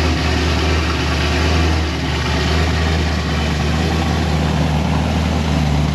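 V8 engine idling through its aftermarket exhaust, a steady, deep drone.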